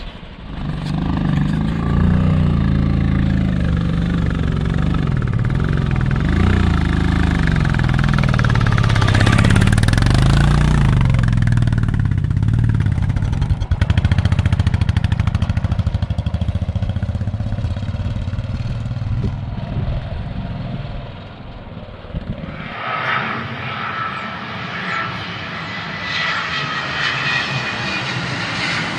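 Motorcycle engine running while being ridden, its pitch rising and falling. About 23 seconds in, it cuts abruptly to a thinner, higher engine drone.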